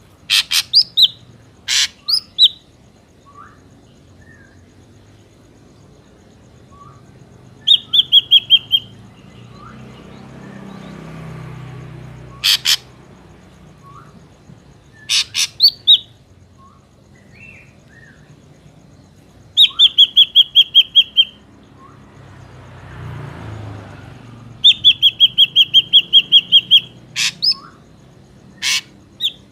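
Ashy drongo calling: several fast runs of clear, even whistled notes, about six a second and up to a dozen or more in a run, between single sharp notes that sweep up and down.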